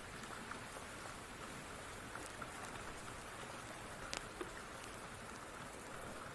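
Steady rain with a few scattered sharp crackles mixed in, the loudest about four seconds in.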